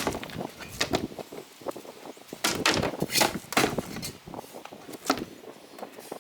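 A string of irregular sharp knocks and clatters, with a few longer scraping or rattling sounds in the middle.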